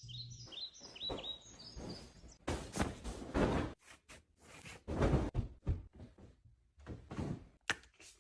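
A quick run of high, falling chirps at the start, then irregular knocks and clatters as items are handled and set down.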